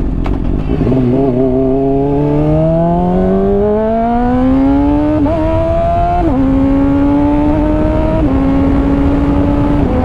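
Honda CBR600RR inline-four with a slip-on exhaust, accelerating with its revs rising steadily. It shifts up about six seconds in and again about eight seconds in, each time dropping in pitch, then holds a near-steady cruise over wind rush.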